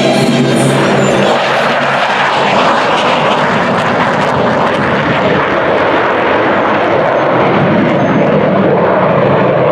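F-15 Eagle fighter jet flying past, its twin jet engines making a loud, steady rush of noise that covers the background music, which fades out under it in the first second.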